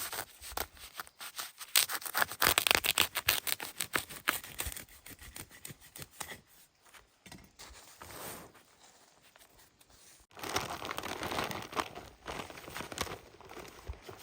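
Rapid scraping and crunching of rough material being worked: dense strokes for the first few seconds, sparser in the middle, then a steadier rasping scrape from about ten seconds in.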